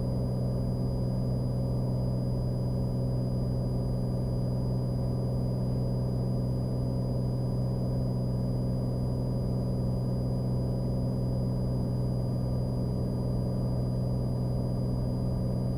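Cessna Skylane's piston engine and propeller droning steadily in cruise on an instrument approach, heard inside the cabin.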